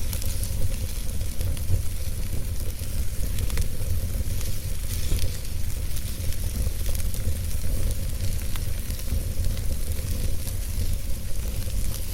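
Wood fire burning in a fireplace: a steady low rumble of flames with frequent small crackles and pops from the burning wood.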